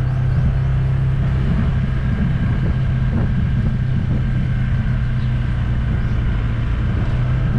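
Steady engine and road noise of a moving vehicle, with a constant low hum.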